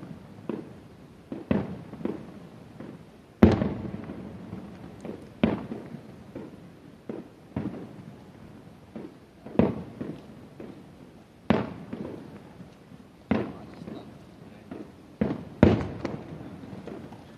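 Distant aerial fireworks shells bursting one after another, a dozen or so sudden booms at uneven intervals, each trailing off in a rolling echo. The loudest burst comes about three and a half seconds in.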